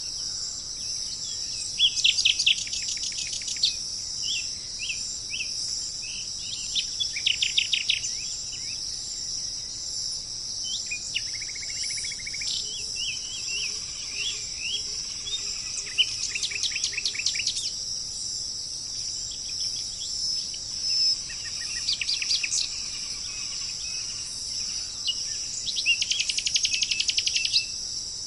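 A songbird singing short, fast trilled phrases, repeated every few seconds, over a steady high chorus of crickets or other insects.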